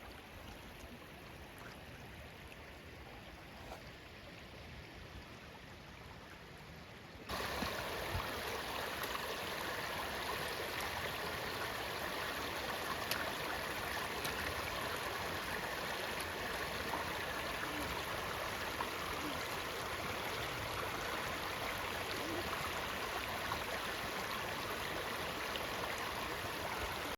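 A creek running: a steady rush of flowing water, faint at first, then suddenly much louder about seven seconds in.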